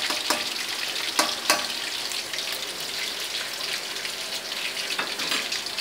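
Battered small mairo fish deep-frying in hot oil in an aluminium wok: a steady crackling sizzle. There are a few sharp clicks in the first second and a half, and one more near the end.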